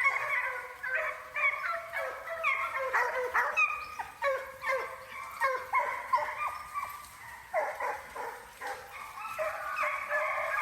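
A pack of coyote hounds giving voice together, many overlapping baying cries and yips, some falling in pitch: the hounds are running a coyote's trail.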